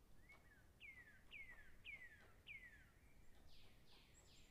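Near silence, with a faint bird calling: four falling chirps about half a second apart, then a quicker run of short, higher notes near the end.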